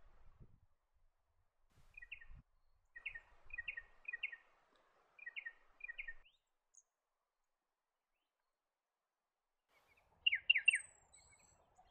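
Spotted pardalote calling: short paired high notes repeated several times, then a stop. About ten seconds in, a louder three-note call of the striated pardalote.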